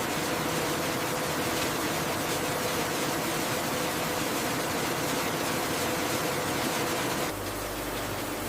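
Factory machinery running with a steady, hissy hum and a faint constant tone; about seven seconds in it cuts to a slightly quieter, lower-pitched machine hum.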